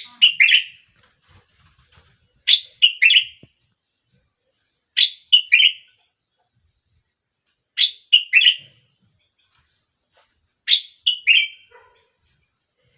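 A bulbul singing short phrases of about three quick whistled notes, repeated five times at intervals of roughly two and a half to three seconds.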